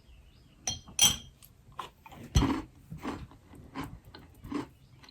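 A spoon clinks twice against a jam jar, then a crunchy keto vanilla wafer topped with jam is bitten into about two and a half seconds in and chewed, with short crunches about every half second.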